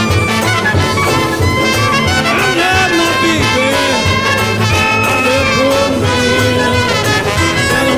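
Live jazz-blues band playing an instrumental passage, led by brass horns with bending, sliding notes over a steady rhythm section.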